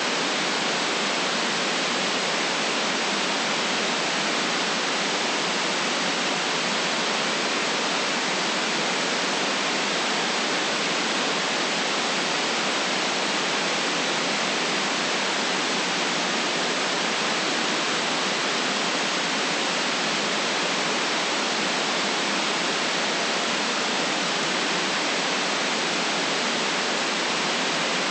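Steady white noise: an even, unchanging hiss with no other sounds in it.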